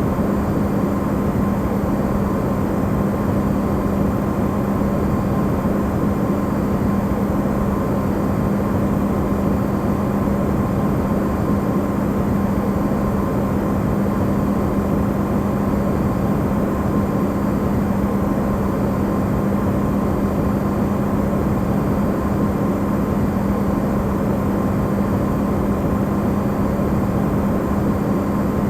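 Amplified Electrolux refrigerator running, a steady unbroken hum with a strong low tone and a fainter higher tone over a rushing noise.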